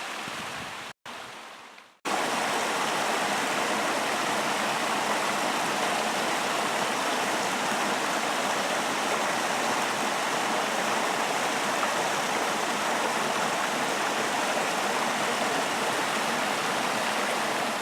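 Rushing water of a mountain creek cascading over rocks, an even, steady roar. It cuts out twice for a moment in the first two seconds, then runs on unbroken.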